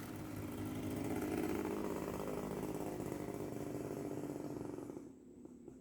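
A small engine running steadily, rising to its loudest about a second and a half in, then fading away near the end.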